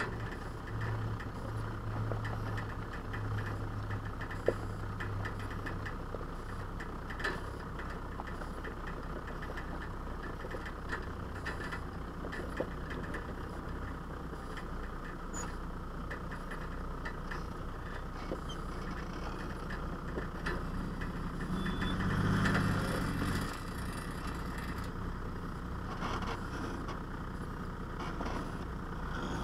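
Off-road 4x4's engine running at low revs as the vehicle crawls over a rocky mountain track, with scattered knocks and rattles. The engine note swells for a second or two about three-quarters of the way through.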